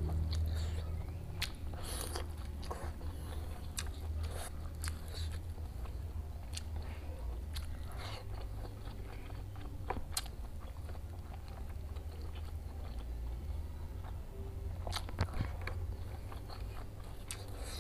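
A person eating close to the microphone: biting and chewing crunchy food, with many sharp, irregular crunches and mouth clicks over a steady low hum.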